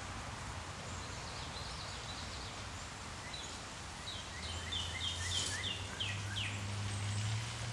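Outdoor field ambience with a songbird singing a run of short, high chirping notes in quick succession. Partway through, a low steady hum comes in and steps up in pitch twice.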